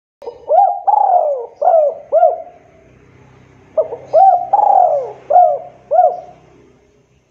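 Spotted dove cooing: two phrases of about four or five coos each, the second starting a little under four seconds in.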